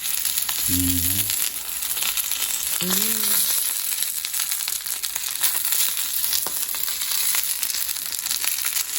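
Pelmeni frying in oil in a pan, sizzling steadily with many small crackles and spits.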